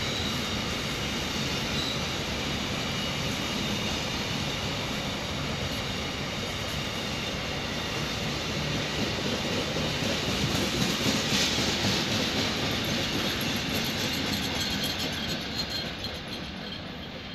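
Container wagons of a long freight train rolling past on the rails: a steady rumble and rattle of wheels on track. It is loudest about two-thirds of the way through, then fades as the brake van at the tail goes by near the end.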